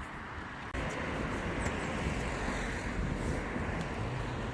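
Steady road traffic noise from a busy road, getting suddenly louder a little under a second in.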